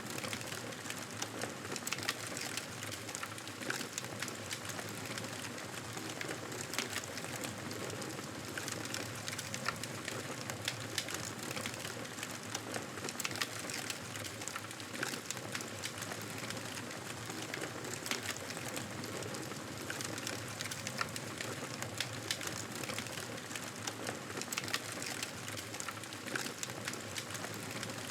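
Wood fire in a fireplace burning steadily, with a constant hiss dotted with many small crackles and pops.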